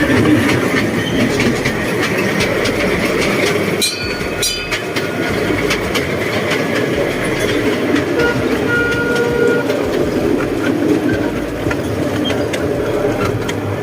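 Small tourist train running along its track, heard from on board: a steady rumble with many sharp clicks of the wheels on the rails, a burst of clicking about four seconds in and a short high squeal about eight to nine seconds in.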